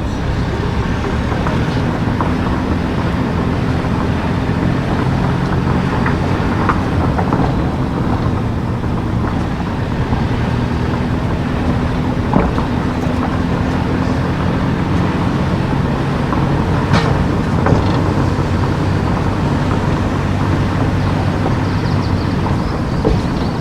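A car driving: a steady low engine hum with road and tyre noise, and a few brief light clicks or knocks about halfway through and later.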